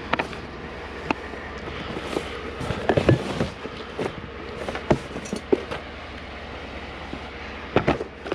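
Scattered knocks, clicks and clatters of junk being handled and shifted in a curbside trash pile, over a steady low rumble.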